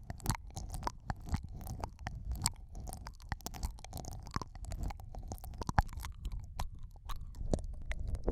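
Close, wet mouth sounds of ear-eating ASMR: lip smacks, tongue clicks and licking right at the microphone, as a dense, irregular run of small sharp clicks over a low rumble.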